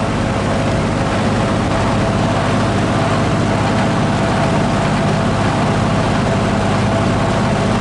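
Vintage GE W12 box fan running steadily at full speed: a low motor hum under a broad rush of air from the blades. The front grille buzzes with vibration, and one blade sits less evenly than the others, so the fan runs slightly wobbly.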